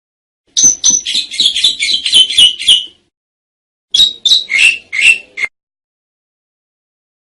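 Asian pied starling (jalak suren) singing: a fast run of loud chattering notes for about two and a half seconds, then after a short pause a second phrase of about five notes.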